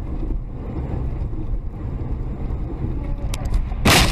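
Steady low rumble of a car driving, as heard from inside the vehicle. About three seconds in there is a brief sharp click, and near the end a loud sudden burst of noise.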